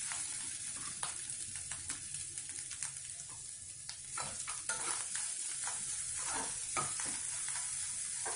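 Grated coconut frying in hot coconut oil in a kadai with a steady sizzle, while a steel spoon stirs and scrapes it round the pan, more busily in the second half. The coconut is being roasted until its colour just starts to change.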